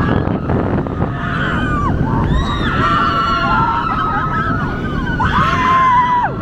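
Several roller coaster riders screaming and whooping, their voices rising and falling over each other, over a loud, steady low rumble of wind and the coaster train running on the track.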